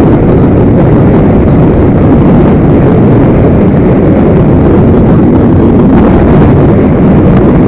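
Loud, steady wind rush on a helmet-mounted action camera's microphone at riding speed, an even low roar with no engine note standing out.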